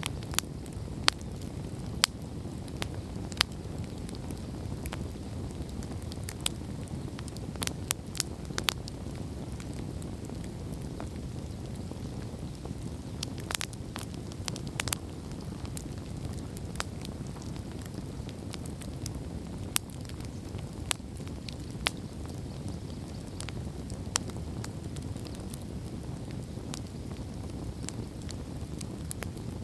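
Wood campfire burning: a steady low rumble of flame with irregular sharp pops and crackles, a few louder snaps scattered through.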